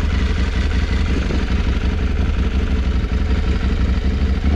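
Parallel-twin adventure motorcycle engine idling steadily with a deep low rumble.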